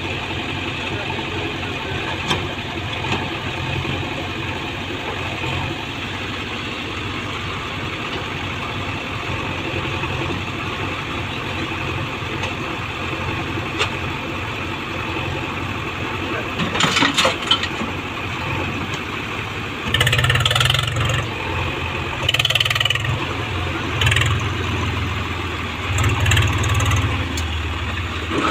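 Heavy diesel engine running steadily, with a few sharp clicks about two-thirds of the way in and then several short, louder surges in quick succession near the end.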